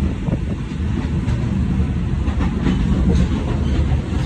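Steady low rumble and rattle of a sleeper-train carriage running along the track, heard from inside the car, with a few light clicks.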